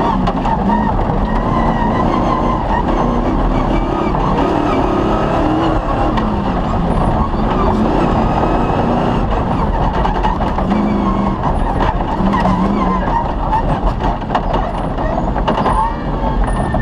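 Cross-country rally vehicle driven hard on a special stage: the engine runs loud and steady, its pitch rising and falling with throttle and gear changes, over a constant rumble of the terrain with scattered knocks and rattles.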